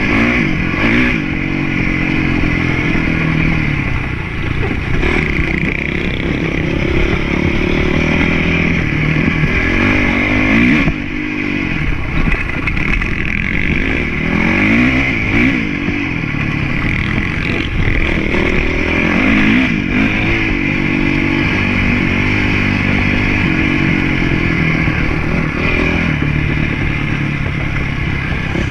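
Motocross motorcycle engine running hard without a break, its pitch rising and falling over and over as the throttle opens and closes, with some mechanical clatter.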